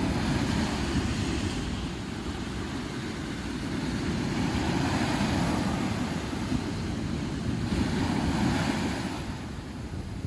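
Sea surf breaking on a sandy beach, swelling and falling back several times, with wind buffeting the microphone in a steady low rumble.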